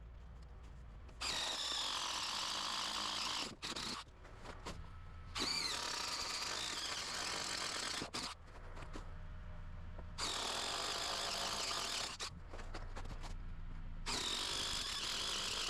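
Power drill boring into the concrete foundation in four bursts of two to three seconds each, its motor whining high.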